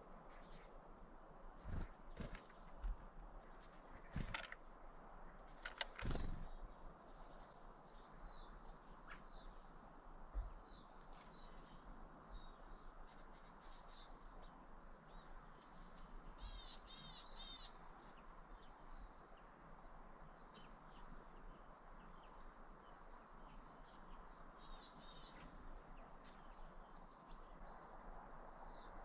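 Small birds chirping and twittering in short, high repeated calls throughout, over a faint steady background hiss. There are a few sharp knocks in the first six seconds, the loudest at about six seconds in.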